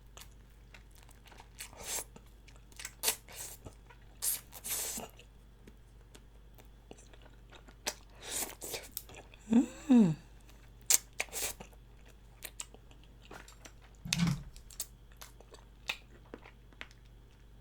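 Close-miked chewing of spicy chicken feet: the crunch of bone and cartilage between the teeth comes in scattered, irregular bites. About ten seconds in there is a short, louder hum from the eater that falls in pitch.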